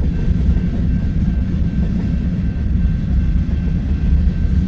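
Freight cars of a mixed manifest train rolling past, a steady low rumble of steel wheels on the rails with a faint thin tone above it.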